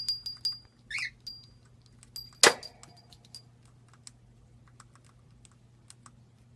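Small metal pieces clinking, each strike with a brief bright ring, several times in the first second and a half, then a single sharp click about two and a half seconds in and scattered faint ticks. A short falling chirp comes about a second in.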